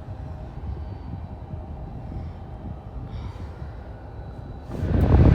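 Low, steady rumble of distant jet aircraft engines; near the end a sudden loud rush of wind buffets the microphone.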